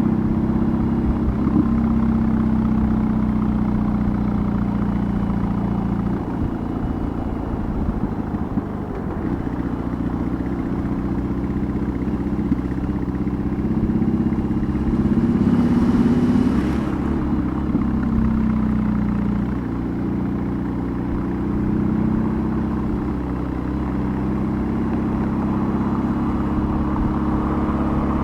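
BMW R18's 1.8-litre boxer twin running through a custom exhaust while riding, its pitch rising and falling with the throttle. A short rush of hiss cuts in about halfway through.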